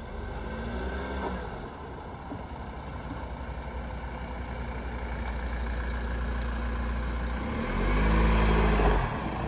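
Mercedes-Benz W211 E-Class driving, with steady engine and road rumble that grows gradually louder and swells into a heavier low rumble near the end.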